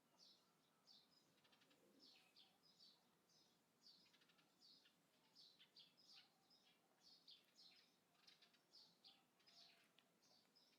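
Faint birdsong outdoors: small birds giving quick, repeated chirps, several short notes a second.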